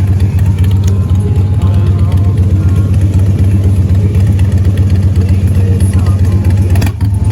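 Car engine idling close by, a steady, loud low rumble, with faint voices under it.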